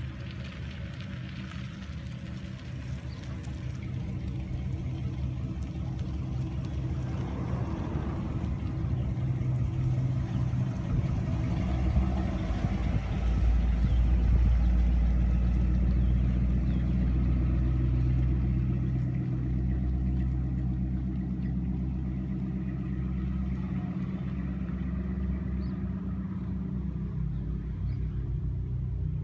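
1964 Chevrolet Impala sedan driving past at low speed, its engine running steadily. The engine grows louder as the car passes close, about halfway through, then eases off as it drives away.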